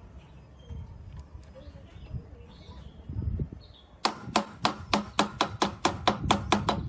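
A fast, even run of sharp strokes on metal, about five or six a second, starting suddenly about four seconds in and stopping near the end; before it, only a low rumble.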